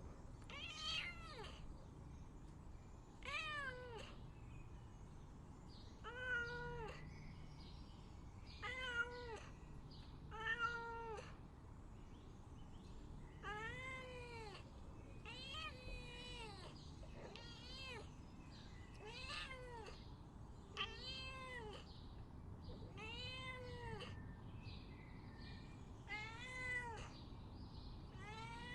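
Cat meowing over and over, about a dozen drawn-out meows spaced roughly two seconds apart, each rising and then falling in pitch.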